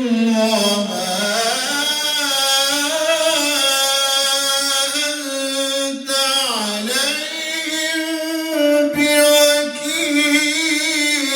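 Male Quran reciter chanting in melodic tajweed style with long drawn-out notes. The pitch dips and rises again twice.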